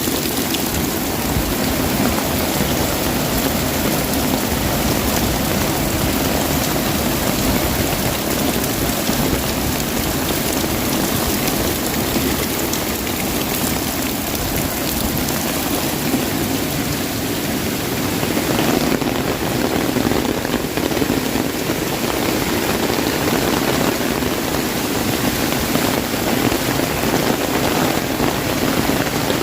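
Heavy rain drumming on an umbrella: a dense, steady patter of drops.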